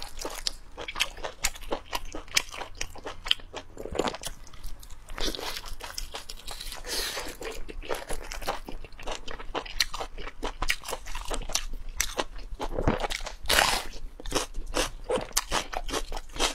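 Close-miked eating: a person biting and chewing braised meat, with many quick irregular wet clicks and smacks from the mouth and sticky fingers.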